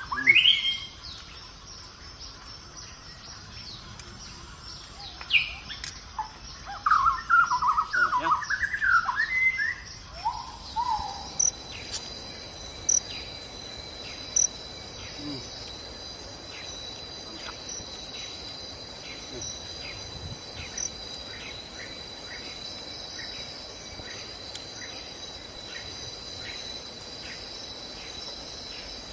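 Birds chirping with short rising and falling calls for the first ten seconds or so, then a steady high insect trill with a regular pulse, like crickets or cicadas, running on for the rest.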